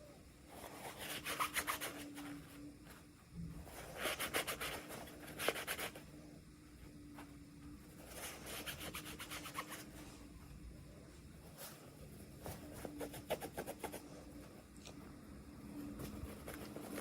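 Hands rubbing and crinkling packaging during an unboxing: short bursts of rapid crackles every few seconds, over a faint steady hum.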